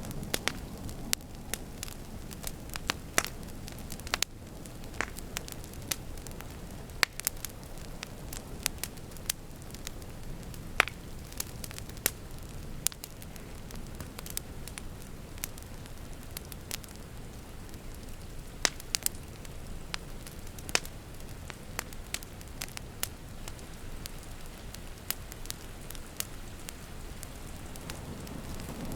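Wood fire crackling, with many sharp irregular pops and snaps over a steady low rush of rain.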